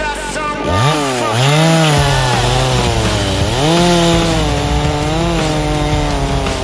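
ZimAni MS 361 PRO two-stroke chainsaw revving up about a second in, then running at high speed through a cut, its engine pitch sagging under load and picking up again.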